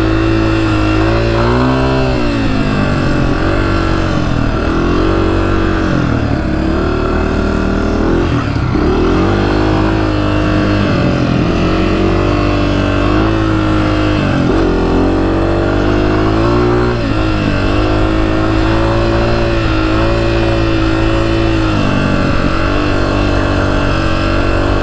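Honda CRF250F dirt bike's single-cylinder four-stroke engine under load as it is ridden through soft sand, the revs dropping and climbing again every couple of seconds with the throttle and gear changes.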